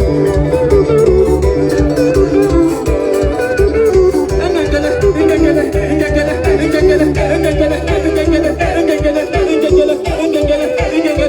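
Upbeat band music with guitar melody over bass and drums; the held bass notes drop out about three seconds in, leaving a regular drum beat under the guitar.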